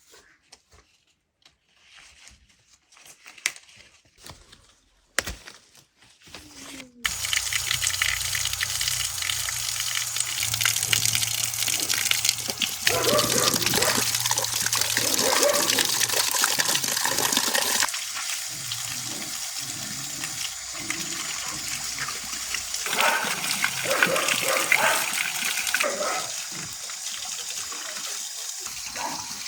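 Water running hard, as from a tap or hose, starting suddenly about seven seconds in, with a low steady hum under it; it eases off somewhat in the second half.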